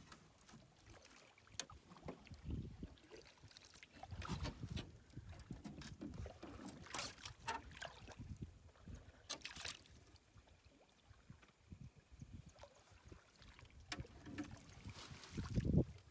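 Small boat on the water: irregular water sloshing and scattered knocks and clicks against the hull and gear, with no motor running.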